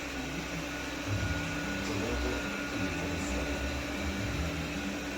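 Cecotec Conga 7490 robot vacuum cleaner running, a steady motor hum over an even rush of suction noise.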